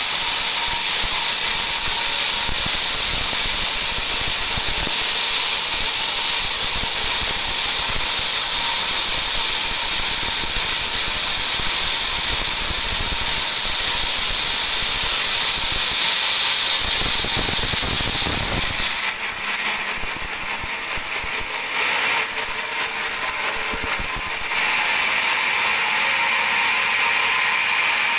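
Large band sawmill blade cutting through a teak log, a loud steady rasping mechanical noise whose sound shifts a couple of times about two-thirds of the way in.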